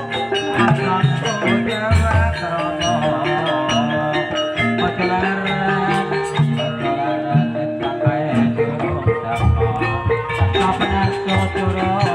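Campursari-style gamelan music accompanying an ebeg dance: mallet-struck pitched instruments playing a busy melody over drums, loud and continuous.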